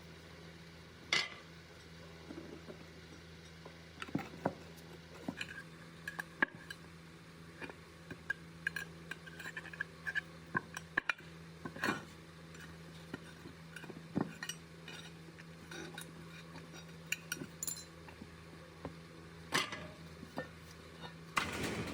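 Metal parts clinking and knocking as they are handled, in scattered light taps with a few louder knocks, over a steady low hum.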